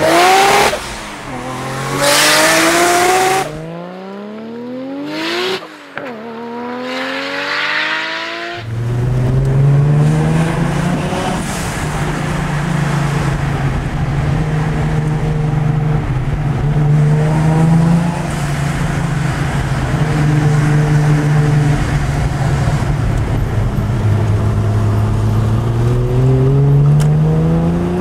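Nissan Skyline R33 GT-R's twin-turbo straight-six, the RB26DETT, revving hard in a few short runs at first, then pulling through the gears. It is heard from inside the cabin, the pitch climbing and dropping at each shift and rising again near the end.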